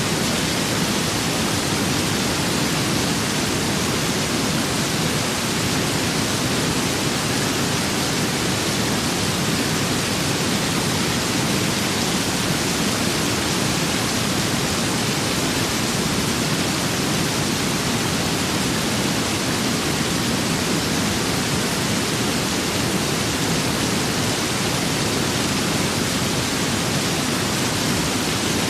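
Steady rain with wind, a dense even hiss with no separate drops, gusts or thunder standing out.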